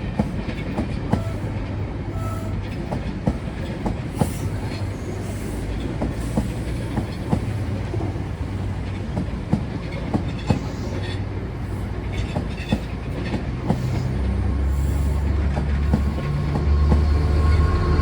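A train running past, its wheels clicking over rail joints about once a second over a steady rumble, with a low diesel engine note growing louder in the last few seconds.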